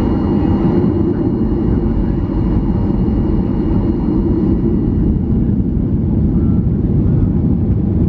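Cabin noise inside a Boeing 737-800: a steady, loud rumble from its CFM56 jet engines and airframe, with a faint constant high whine above it.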